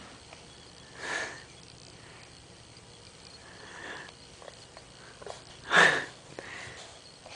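A few short breathy sniffs or puffs of breath, four in all, the loudest about six seconds in.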